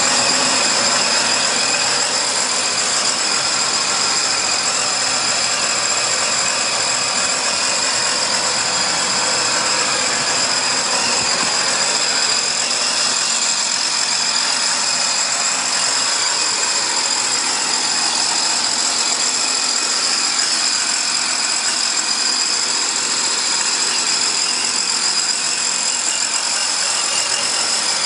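Engine of a 2017 Chaparral 223 Vortex jet boat idling steadily, with no change in speed.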